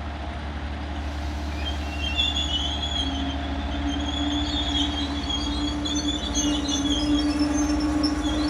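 Network Rail Windhoff multi-purpose vehicle creeping slowly to a stand, with its diesel engines running as a steady low drone. From about two seconds in, high squealing comes from its wheels and brakes, and a steady hum sets in soon after.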